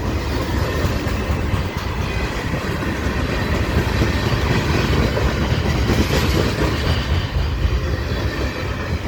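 Freight train rolling past close by, the railcars' wheels rumbling steadily and clicking over the rail joints.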